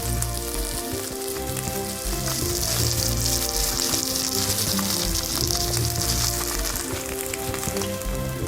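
Steak sizzling in a hot frying pan over a campfire, a dense crackling hiss that swells in the middle, under background music.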